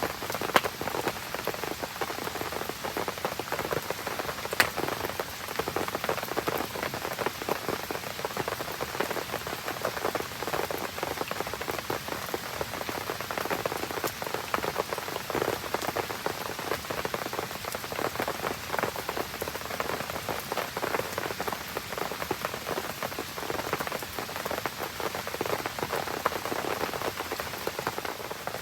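Steady rain pattering on surfaces around a burning campfire, a dense even crackle throughout. Two sharp pops stand out, about half a second in and about four and a half seconds in.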